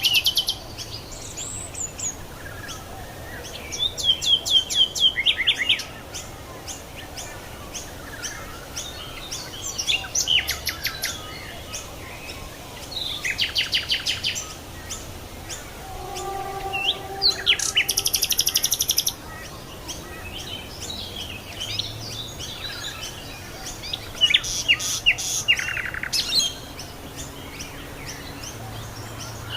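Wild songbirds singing and calling. High, fast trills and runs of quick repeated notes come every few seconds, with fainter chirps in between.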